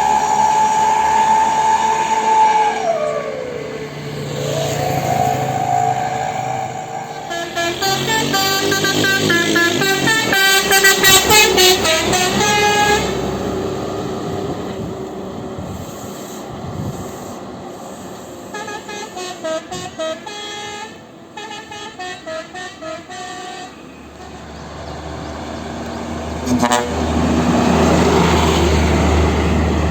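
Heavy vehicles passing, with basuri (telolet) multi-tone musical horns playing quick stepped tunes, once loudly and a second time fainter and pulsing. Engine noise falls and rises in pitch near the start, and a deep engine rumble builds near the end.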